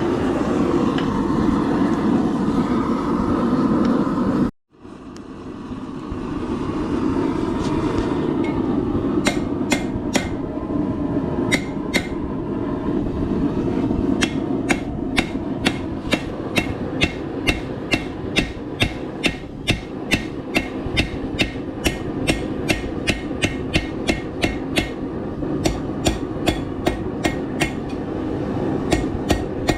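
Hand hammer striking hot steel on an anvil, flattening the end of a bar for a holdfast, in a steady run of sharp blows from about nine seconds in, roughly two to three a second. A steady rushing noise runs underneath throughout and cuts out briefly about four seconds in.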